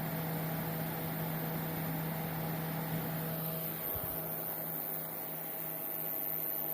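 APC SRT uninterruptible power supply running: a steady electrical hum over even cooling-fan noise, with a faint high whine. A single soft knock comes about four seconds in.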